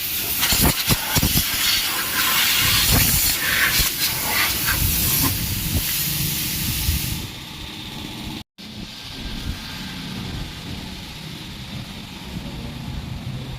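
High-pressure water spray hissing hard against a car at a car wash, with rapid spattering, cutting off about seven seconds in. A quieter low rumble with faint hiss follows after a brief dropout.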